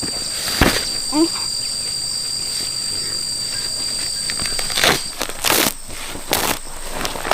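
Steady high insect buzz in two pitches, the lower one stopping about five seconds in. A few short scraping strokes come through in the second half.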